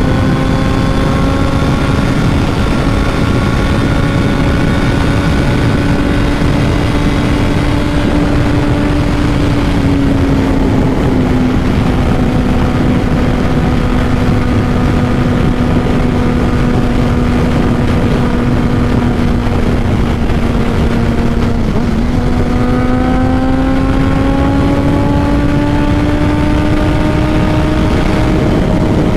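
Honda CBR600RR inline-four with a Two Brothers full exhaust, running hard at a steady high engine speed while riding. The pitch eases down a little about ten seconds in, holds, then climbs again near the end as it accelerates, over a steady rush of wind noise.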